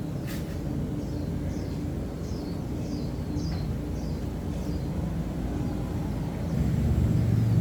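A motor running steadily with a low rumble, louder from about six and a half seconds in. A bird chirps a string of short falling notes in the first half.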